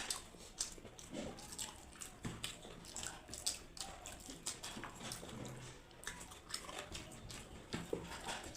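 Close-up eating sounds: irregular wet clicks and smacks of people chewing and swallowing mouthfuls of egg biryani.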